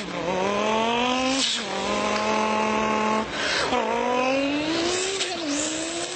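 A person imitating a turbocharged Lamborghini Gallardo with his mouth, accelerating up through the gears. A rising engine note is broken about three times by short hissing bursts, like gear shifts and turbo blow-off.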